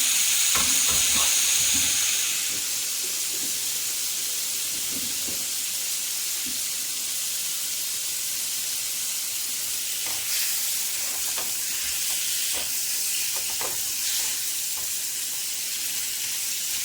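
Chicken breast pieces sizzling in melted butter in a frying pan, a steady hiss that eases slightly about two seconds in, with a few light knocks.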